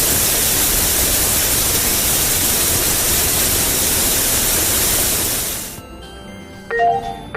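Loud steady hiss that cuts off about six seconds in, followed near the end by short two-note beeps repeating about every half second.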